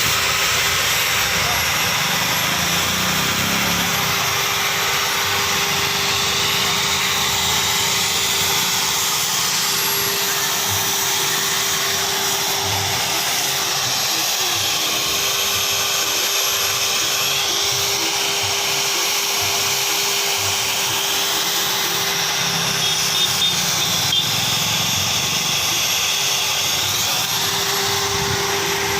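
Steady, loud machine noise with a constant hum running under it, unbroken throughout.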